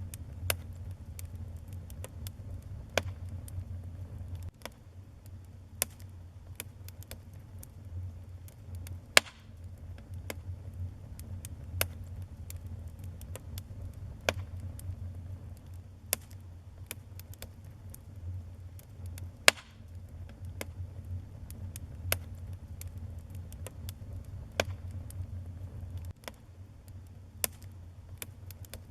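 Wood fire burning in a fireplace: a steady low rumble of the flames with irregular sharp crackles and pops, a few of them louder, about nine seconds and twenty seconds in.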